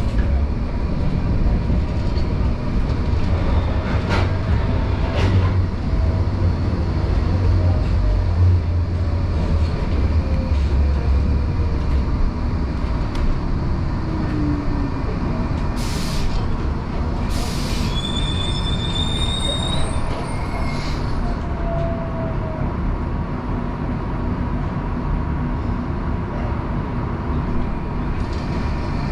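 Tram running on its rails with a steady rumble. A slowly falling whine comes midway, then two sharp knocks, then a high wheel squeal lasting about two seconds, about two-thirds of the way through.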